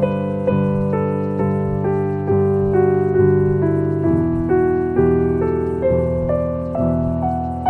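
Background piano music, probably electric piano, with notes and chords struck at an even pace of about two a second, each one ringing and fading until the next.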